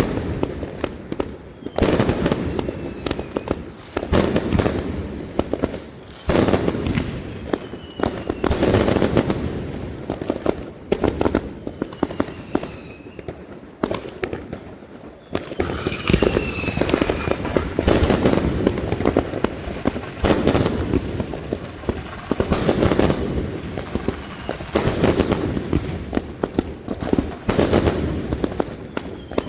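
Fireworks display: loud aerial bursts about every two seconds, each trailing into crackling, with a few faint falling whistles in between.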